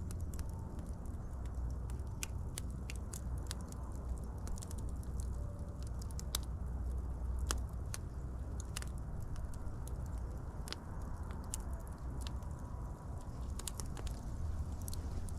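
Wood fire crackling: a steady low rumble of burning with irregular sharp pops and snaps.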